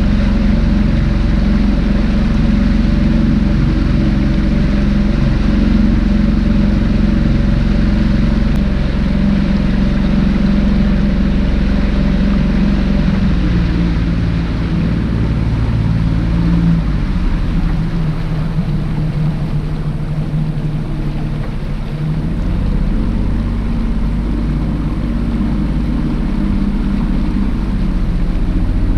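Boat engine running steadily under way. Its note drops about halfway through and picks up again a few seconds before the end.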